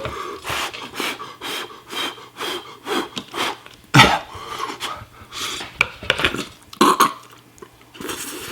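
A person's mouth and breathing noises while eating extremely spicy noodles: a string of short noisy huffs and puffs of air, about two a second, from the burn of the spice. A sharp knock about four seconds in.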